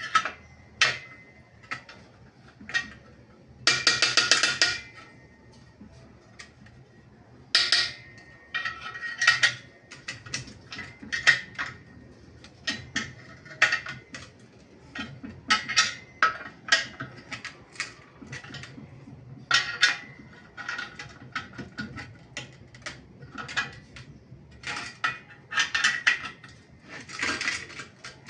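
Metal parts and tools clinking and knocking together in irregular handling, many sharp clinks with a light ring, broken by a couple of longer scraping or rattling bursts, near the start and near the end.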